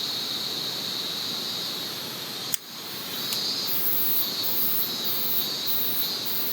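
Outdoor forest ambience: a steady rushing noise of flowing river water, with insects calling in regular pulses of high, shrill sound. A single sharp click comes about two and a half seconds in, and the sound dips briefly after it.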